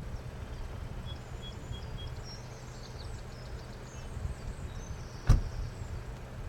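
Faint birdsong, short high chirps and four quick even notes, over a steady low rumble, with one sharp click about five seconds in.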